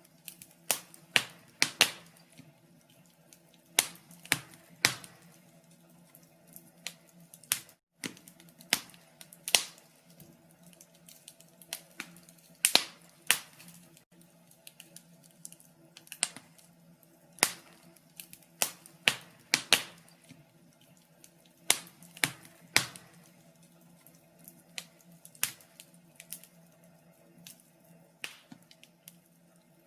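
Wood fire crackling in a fireplace: irregular sharp pops and snaps, sometimes in quick clusters, over a faint steady low hum.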